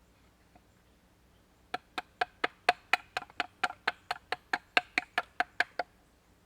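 A quick, even run of about twenty sharp, ringing knocks, roughly four or five a second, lasting about four seconds and then stopping.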